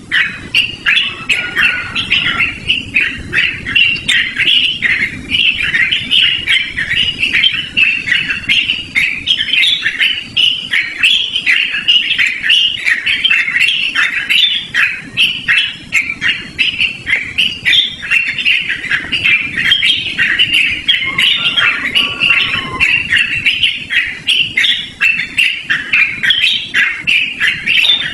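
Yellow-vented bulbul (trucukan) singing without a break, a fast run of loud, choppy chattering notes.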